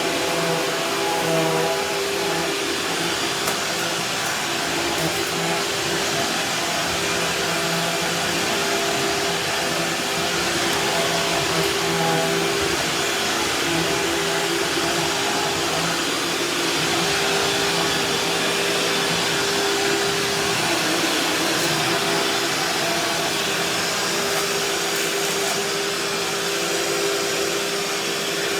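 Vacuum cleaner running steadily, its motor hum holding an even pitch as it cleans a kitchen floor.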